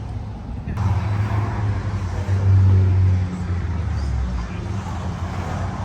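A car running on the road: a steady low engine hum under tyre and road noise. It starts abruptly about a second in and swells briefly in the middle.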